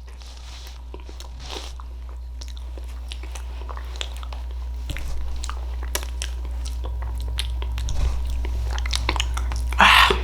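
Close-miked mouth sounds of someone eating soft baked sweet potato: many small wet clicks and smacks of chewing. A steady low hum runs underneath, and there is a louder, breathy burst near the end.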